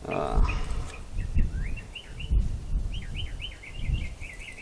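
A bird chirping in a quick run of short repeated calls, with a few dull low thumps underneath.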